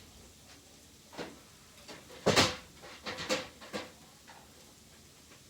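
Front grill of a window air conditioner being set down and handled: a few sharp knocks and clatters, the loudest about two seconds in.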